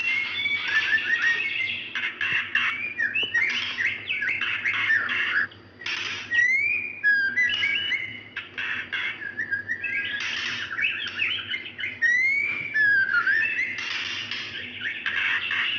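Female white-rumped shama calling, a bird in breeding condition calling for a male: an almost unbroken run of varied whistles, rising and falling glides and rapid trills, with brief pauses around six and nine seconds in. A faint steady low hum lies underneath.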